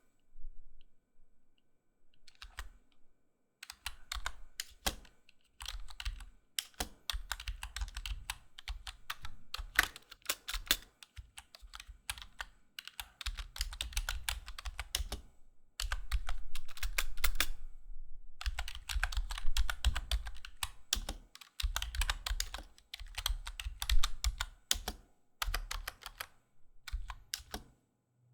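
Typing on a computer keyboard: quick runs of key clicks in bursts with short pauses between them, after a quiet start of a couple of seconds. One louder key strike comes near the end.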